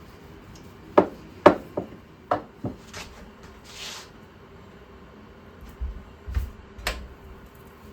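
Kitchen clatter: a quick run of sharp knocks and clacks in the first three seconds, a short hiss about four seconds in, then a few duller thumps and a click near the end.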